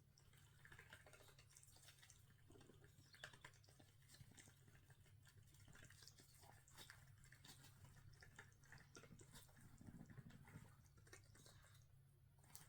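Near silence: room tone with a low steady hum and faint scattered clicks and rustles.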